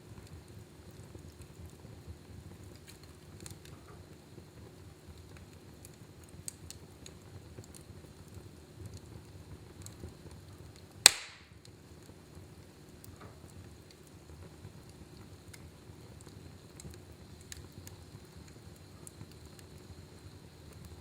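Wood fire burning in a fireplace: a low steady rush of flame with scattered faint crackles, and one loud, sharp pop about halfway through.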